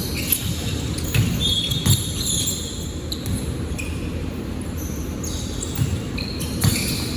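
Basketball bouncing on a gym court in scattered thuds, with short high squeaks, in a large echoing hall.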